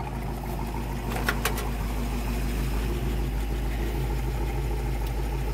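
1967 Shelby Mustang's solid-lifter 289 Hi-Po V8 idling steadily, with two sharp clicks about a second and a half in.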